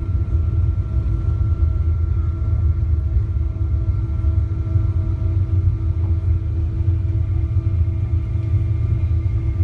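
Steady cabin noise inside a Boeing 777-200ER in flight: a deep, even rumble of airflow and Pratt & Whitney PW4090 turbofans, with several steady engine hum tones above it.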